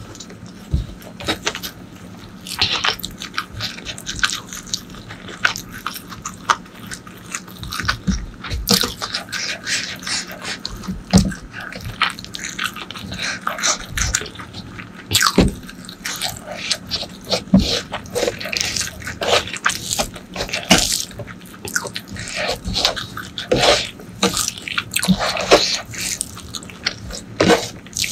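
Close-miked eating of jackfruit curry with rice and fried okra: wet chewing and mouth smacks, a dense run of irregular clicks with no steady rhythm.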